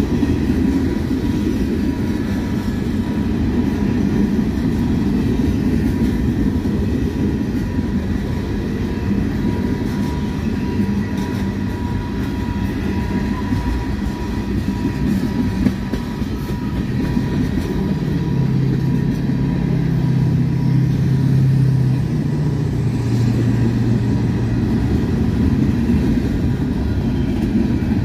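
Freight train's cars rolling past close by at speed: a steady, loud rumble of steel wheels on rail with the clickety-clack of wheels over rail joints.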